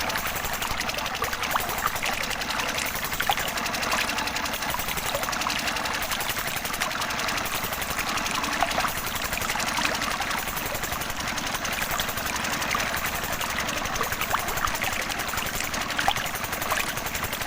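Small motor of a miniature DIY model water pump running steadily with a fast, even rattle.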